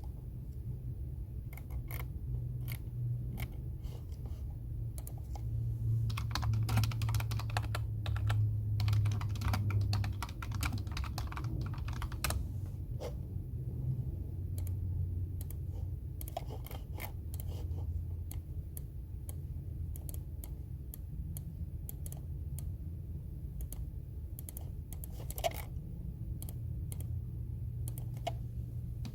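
Computer keyboard typing: quick runs of key clicks, heaviest about a third of the way in, with sparser single presses between, over a steady low hum.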